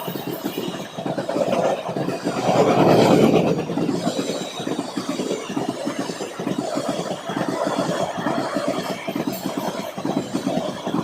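Passenger train running along the track: a continuous rumble and rapid rattle of wheels and carriage, swelling louder for a moment about two to three seconds in.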